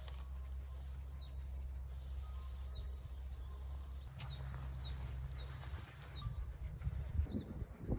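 A small bird calling over and over with short, high, downward-sweeping chirps, over a steady low rumble, with a few low thumps near the end.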